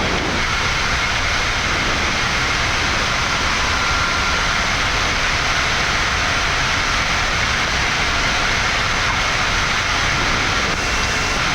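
Steady flight-deck noise of a Boeing 787-9 in its initial climb after takeoff: an even rush of airflow and engine noise, with a faint high whine underneath.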